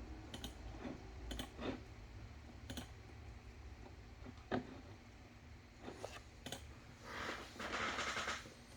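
A few scattered light clicks, then a short rustle about seven seconds in.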